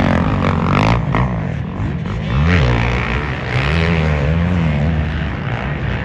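Several motocross race engines running at once, revving hard with their pitch rising and falling as riders work the throttle.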